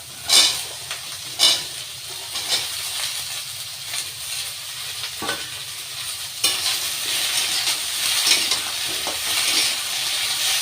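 Chopped vegetables going into hot oil in a kadai with soybean chunks: two sharp bursts of sizzling near the start, then steady frying sizzle while they are stirred, louder from about six seconds in.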